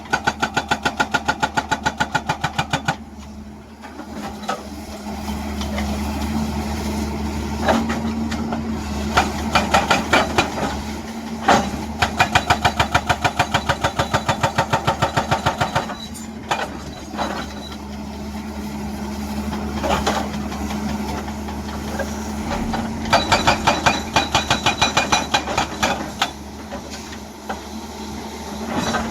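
Hydraulic breaker hammer on a Hyundai excavator pounding rock in runs of rapid, evenly spaced blows lasting a few seconds each. The excavator's diesel engine runs steadily underneath and is heard alone in the pauses.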